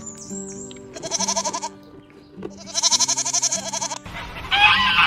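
A goat bleating: two long, quavering bleats, over background music. About four seconds in, a harsher call from another animal cuts in.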